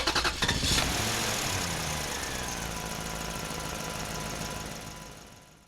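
A motor engine running with a steady hum, its pitch sliding slightly lower and the sound fading away near the end.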